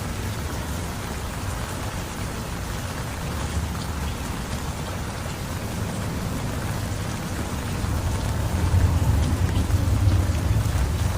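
Heavy rain falling steadily, with a deep low rumble underneath that swells louder about eight seconds in.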